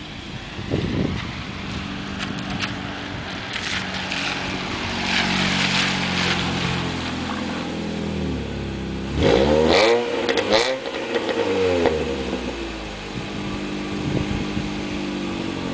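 Saturn Ion Redline's supercharged 2.0-litre four-cylinder running through a Pacesetter aftermarket exhaust: a steady idle, then revved twice about nine and eleven seconds in, the pitch climbing and falling back. The exhaust turns a little raspy at the higher revs.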